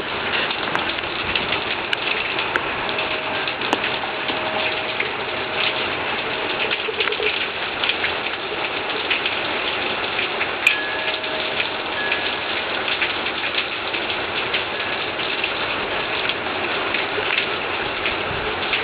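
Heavy rain falling steadily: a dense, even hiss with many small drop ticks through it.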